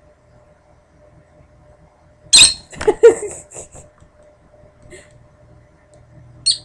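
Peach-faced lovebird giving short, sharp, high-pitched chirps: a cluster about two seconds in and a single chirp near the end.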